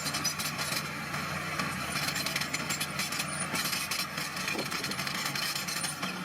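Small bulldozer's diesel engine running steadily under work, with frequent clanks and rattles from the machine and the crushed stone it is pushing.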